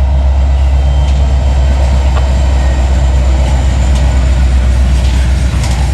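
Freight train running past with a loud, steady, deep rumble, and a few scattered sharp clicks.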